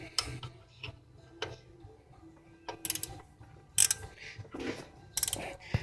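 Scattered metallic clicks and clinks of a 15 mm socket on a ratchet working the serpentine belt tensioner, in irregular taps rather than a steady ratcheting run.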